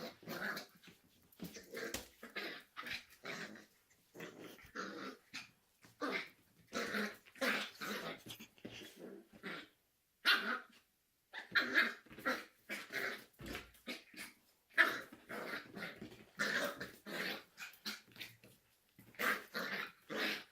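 Puppy growling and barking in play, a string of short, irregular bursts with a couple of brief pauses.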